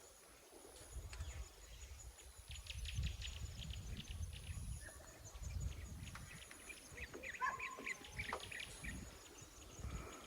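Faint outdoor ambience: scattered bird chirps, mostly in the second half, over a high, thin insect buzz that comes and goes in pulses about every second or so, with an uneven low rumble underneath.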